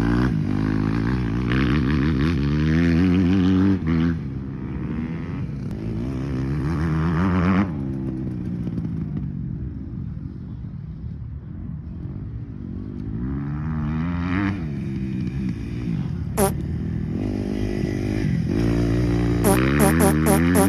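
Motocross bike engine revving up and down repeatedly as it is ridden, easing off in the middle and building again, with a few sharp clicks near the end.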